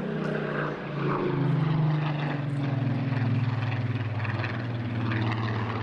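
Spitfire PR XIX's Rolls-Royce Griffon V12 piston engine and propeller in a flypast. The engine note swells about a second in and then falls steadily in pitch as the aircraft passes.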